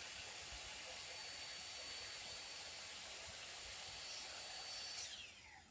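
Power drill running faintly in the background with a steady high whine, then winding down in a falling pitch and stopping near the end.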